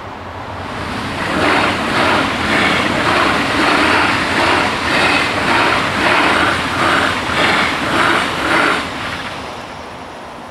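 DB Class 425 electric multiple unit, two units coupled, passing at speed: a rising rush as it approaches, then a rhythmic clatter of wheels on the track about twice a second, fading away as the train goes by.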